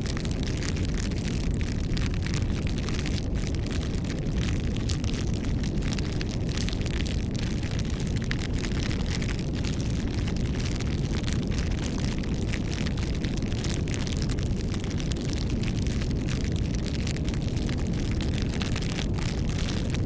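Wood fire burning: a steady low rumble of flames with frequent small crackles and pops.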